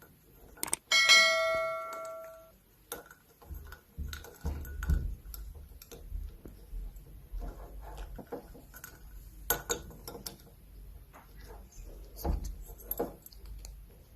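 A small bell is struck once about a second in and rings out over a second or so, followed by scattered light clicks and taps.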